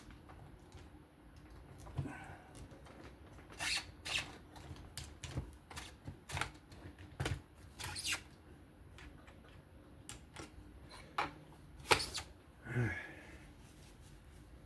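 Irregular sharp clicks, taps and short scrapes of the knife and the Work Sharp Precision Adjust Pro's clamp being handled and tightened, the loudest knock about twelve seconds in.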